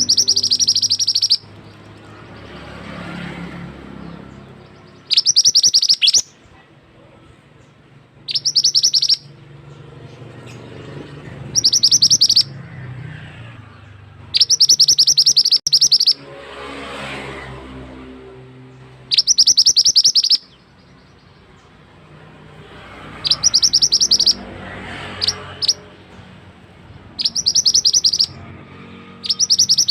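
Mantenan (minivet) singing: bursts of about a second of fast, rapidly repeated high notes, about nine of them at intervals of two to four seconds, over the steady rush of a flowing stream.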